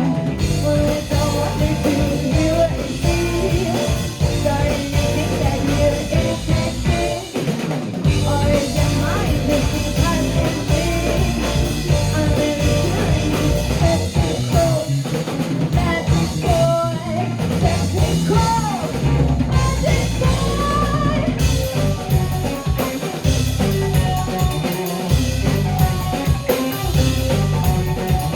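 Rock band playing live: drum kit, guitar and bass with singing over them, continuous and loud.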